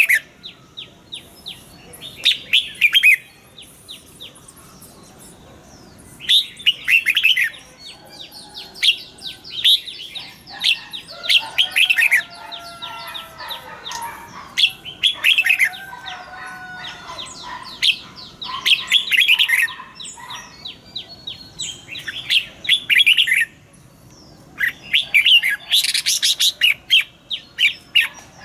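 Red-whiskered bulbuls singing and calling: bursts of quick, falling chirps in rapid runs, with lower warbled, gliding song phrases among them.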